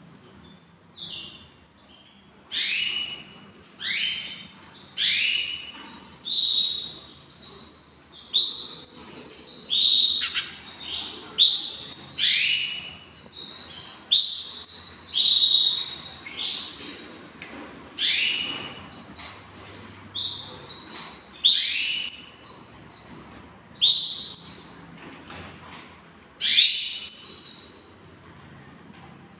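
Canary calling with short, sharp chirps about once a second, each falling quickly in pitch.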